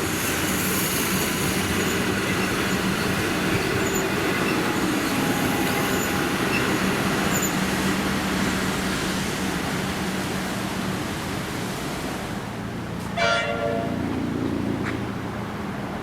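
A train running past with steady rail noise and a low hum that fades out, then a short train horn toot near the end.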